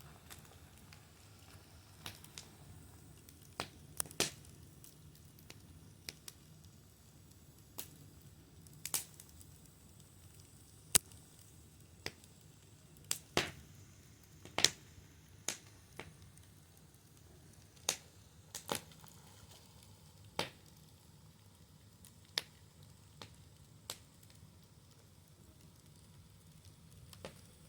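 Fire crackling: irregular sharp pops and snaps, a couple every few seconds and some in quick pairs, over a faint steady hiss.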